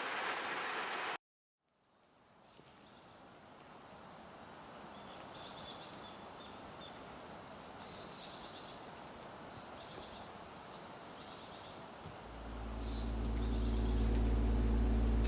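Steady rain for about a second, then a cut to songbirds chirping and singing repeatedly in the forest. Near the end an engine starts up and settles into a steady idle, the loudest sound.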